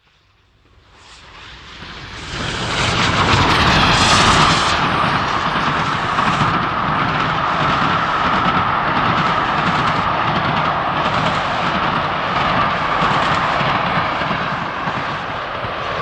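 Steam train rising out of silence over the first two to three seconds, then running loud and steady, a continuous rush with rapid rumbling underneath.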